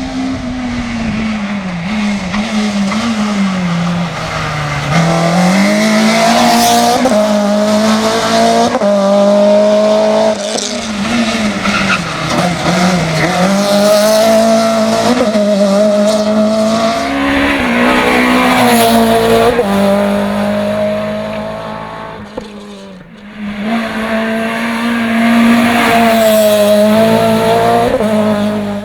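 Renault Clio hill climb car's engine at full throttle, its pitch climbing and dropping again and again through gear changes and lifts for corners. It backs off briefly about three quarters of the way through, then pulls hard again.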